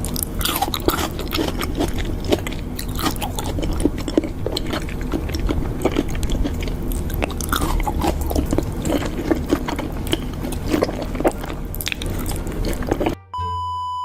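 Close-miked mukbang eating: wet chewing and biting with many small crunchy clicks, irregular throughout. Near the end the eating cuts out for a short steady beep-like tone.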